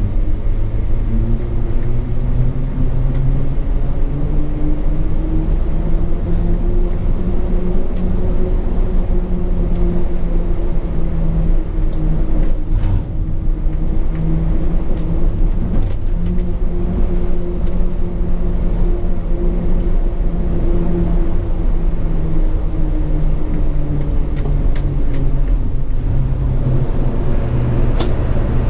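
Hino 500 FM 260 JD truck's six-cylinder turbo-diesel engine running under way, heard from inside the cab with road rumble. Its pitch climbs and eases slowly as road speed changes, with a brief lull about two-fifths of the way through.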